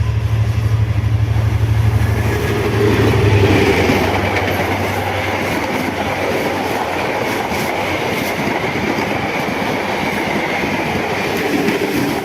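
Diesel train passing at speed: a heavy engine drone for the first few seconds, then the cars rushing by with wheels clattering over the rails.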